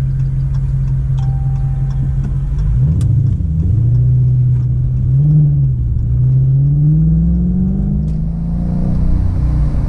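Dodge Charger R/T's 5.7-litre Hemi V8 running under way: a steady drone at first, the pitch wavering about three seconds in, then climbing steadily for a couple of seconds as the car accelerates before falling back near the end.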